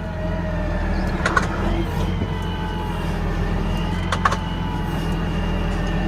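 A vehicle engine running steadily at low revs, with two brief metallic clanks about a second in and about four seconds in.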